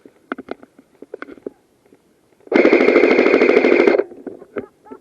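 Airsoft rifle firing one full-auto burst of about a second and a half, close by, with a steady whine running through the rapid shots. A few short sharp clicks come before it.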